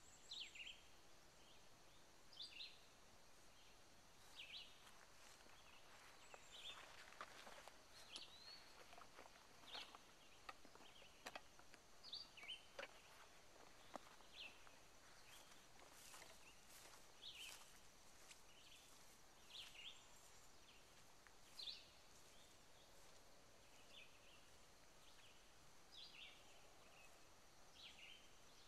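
Faint birds calling in the open: short chirps, each falling in pitch, every second or two, over a faint steady high whine. Light scattered clicks come in the middle stretch.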